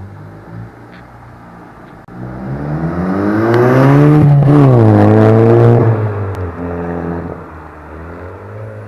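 Skoda Octavia vRS 2.0 TFSI turbocharged four-cylinder, fitted with a 3-inch decat downpipe and a 2.5-inch custom exhaust, accelerating hard with a loud exhaust note. The note climbs, drops briefly about four seconds in, climbs again, then falls away as the car comes off the throttle.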